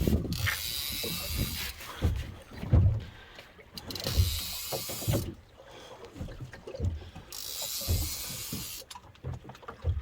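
Fishing reel being wound in, a mechanical whirring and clicking in three spells of about a second and a half each, with irregular low knocks and bumps between them.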